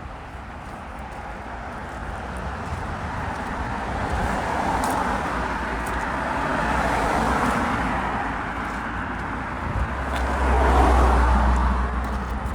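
Cars passing by on a road: one swells and fades through the middle, then a second, louder one with a low rumble passes near the end.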